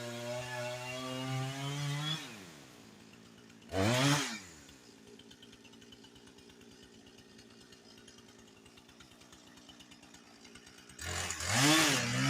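Chainsaw running at high throttle, then let down to idle just after two seconds. It gives one short blip at about four seconds, idles, and is revved back up near the end.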